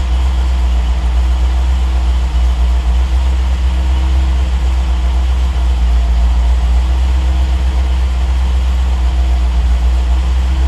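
Triumph TR8's Rover 3.5-litre V8 idling steadily while it warms up after a cold start, its idle held by the Megasquirt engine computer's closed-loop idle control.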